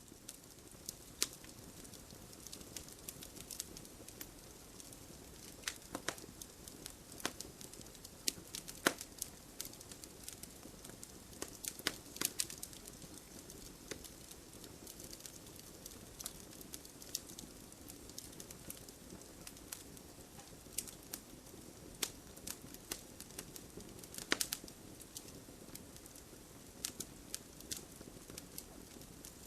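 Wood fire burning in a fireplace, crackling with irregular sharp pops and snaps over a steady low hiss of the flames.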